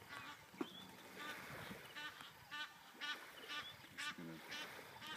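Bird calls: a short, pulsed call repeated about every half second, with a deeper call about four seconds in.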